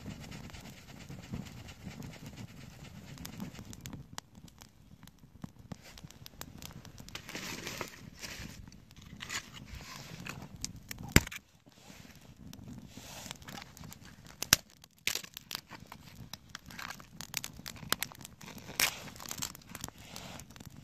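Dry twigs and leaves crackling and crinkling as they are handled, with irregular small snaps and two sharp, much louder cracks, about eleven seconds in and again three seconds later.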